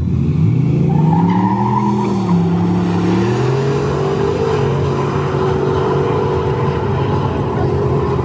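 Drag race car launching and accelerating hard. The engine pitch climbs, drops at a gear shift about two seconds in, climbs again, then holds steady, with a brief tire squeal near the start.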